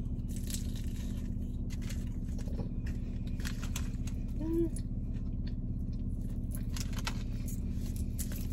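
Close-up chewing of a crispy cinnamon-sugar apple pie roll, with many small crackles and clicks, over the steady low hum of a running car. A short hummed "mm" comes about four and a half seconds in.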